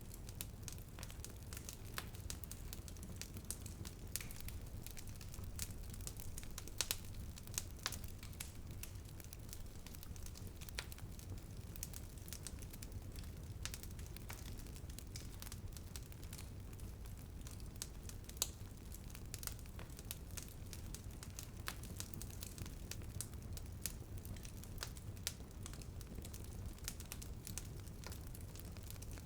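Wood fire crackling in a fireplace: irregular sharp snaps and pops scattered throughout over a steady low rumble.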